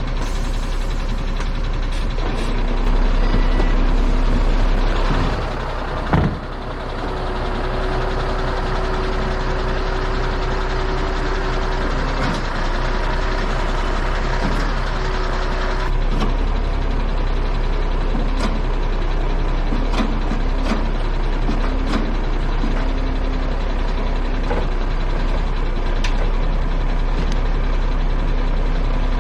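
Heavy truck running, a steady low engine rumble with scattered sharp clicks and short steady tones coming and going; it dips briefly about six seconds in with a loud click.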